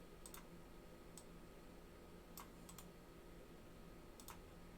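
Near silence broken by a handful of faint, scattered clicks at irregular intervals.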